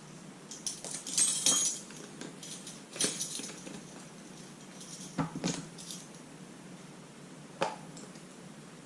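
Metal measuring spoons clinking and jangling against each other and a container while dry ingredients are measured out, in four short bursts of clinks.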